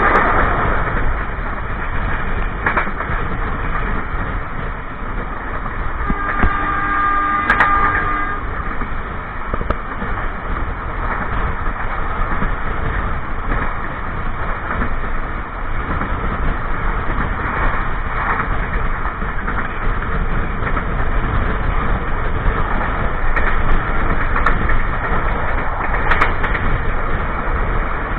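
Passenger train running along the track, a steady loud rumble of wheels on rails from beneath the carriage, with a few sharp knocks. A brief tone with several pitches sounds for about two seconds around seven seconds in.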